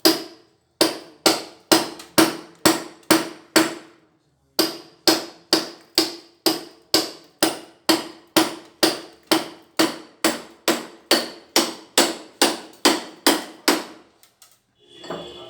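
A hammer striking repeatedly to chip out old wall tile and concrete. The blows come at about two to three a second, each with a short ring, with a brief pause about four seconds in.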